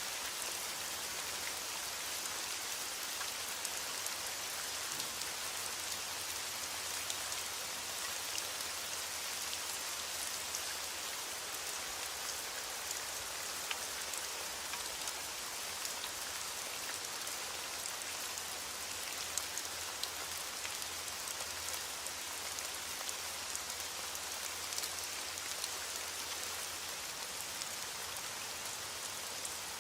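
Steady rain falling, a constant hiss dotted with many small, sharp drop ticks. No thunder is heard.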